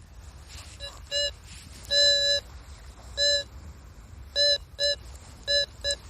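Metal detector beeping on a buried metal target: about eight short, steady beeps at uneven intervals, one held for about half a second, as the signal is swept over and pinned down, a tiny fragment going by the detectorist's own guess.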